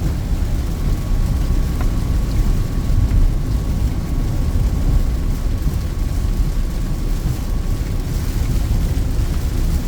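Steady low rumble of a Peugeot 2008 driving uphill on a wet highway in the rain, heard from inside the cabin: engine and tyre noise blended together, with a faint steady whine that stops near the end.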